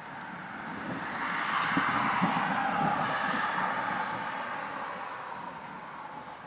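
A vehicle passing by outside: a rushing tyre-and-engine hiss that swells up over the first couple of seconds and slowly fades away.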